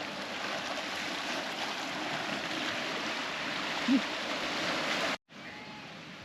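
Steady rush of bay water washing over rocks, with one short low sound about four seconds in. It cuts off abruptly a little after five seconds and gives way to a quieter outdoor background.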